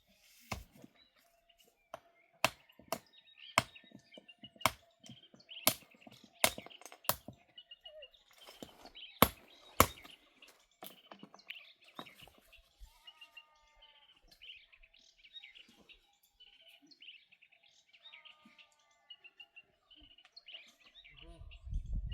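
Small birds chirping throughout, with a series of sharp knocks, about one every half second to a second, through the first ten seconds or so; the knocks are the loudest sounds.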